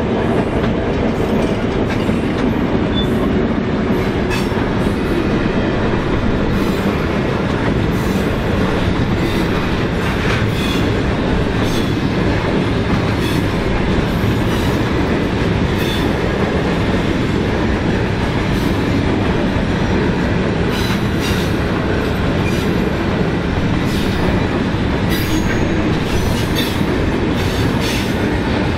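EMD diesel locomotives of a container freight train running past at the start, followed by the container wagons rolling by: a steady heavy rumble with repeated clicks of wheels over rail joints.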